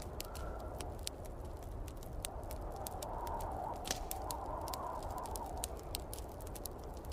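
Wood fire in a fireplace crackling, with many sharp irregular pops, over the steady rumble of snowstorm wind that swells a little in the middle.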